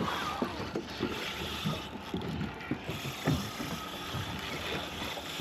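Fishing reel clicking as line is worked on a hooked fish, with scattered knocks.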